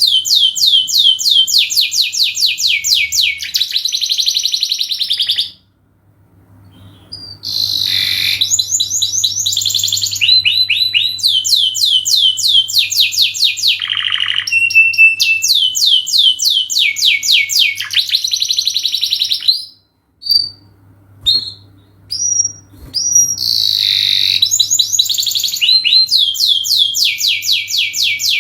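Domestic canary singing long, fast trills of rapidly repeated falling notes, with two short breaks in the song. A faint steady low hum runs underneath.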